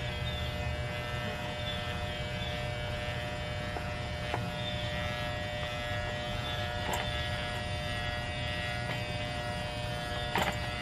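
Electric hair clippers running with a steady buzz, with a few brief clicks; the loudest click comes near the end.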